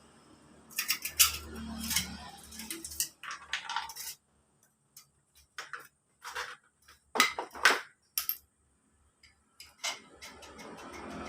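Small metal engine parts and hand tools clinking and clattering as they are handled and set down: irregular sharp clicks with short gaps between them, the loudest cluster a little after seven seconds in.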